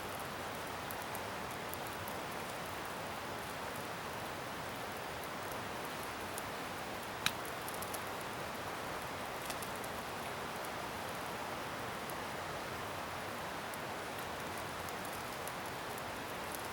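Wood bonfire of scrap timber burning: a steady hiss with scattered small crackles and one sharp pop about seven seconds in.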